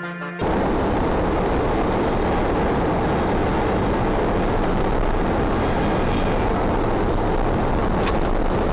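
Steady, loud vehicle rumble that starts abruptly about half a second in, cutting off electronic music.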